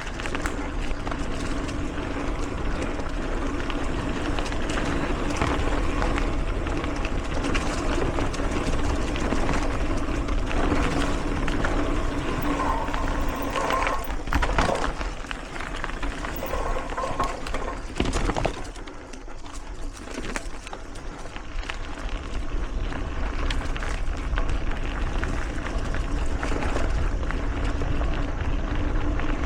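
Mountain bike rolling along dirt singletrack: steady tyre and riding noise with frequent rattles and knocks from the bike over bumps, easing off for a couple of seconds about two-thirds of the way through.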